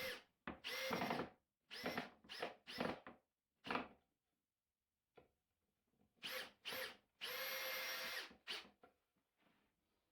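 Power drill driving screws into the wooden jig in a series of short trigger bursts, each a steady motor whine, with one longer run of about a second in the second half and a quiet pause in the middle.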